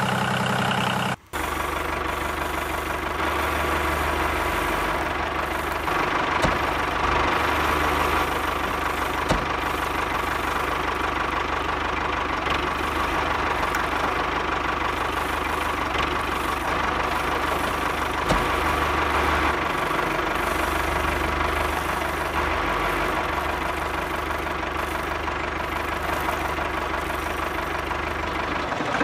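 A tractor-type engine running steadily at idle with a low knocking beat. It sets in abruptly about a second in, right after a brief different sound is cut off.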